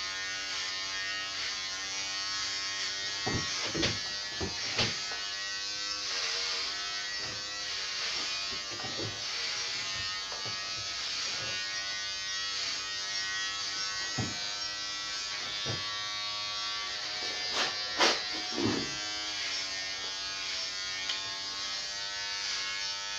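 Electric hair clippers buzzing steadily while cutting hair, the pitch wavering slightly, with a few short knocks around four seconds in and again near eighteen seconds.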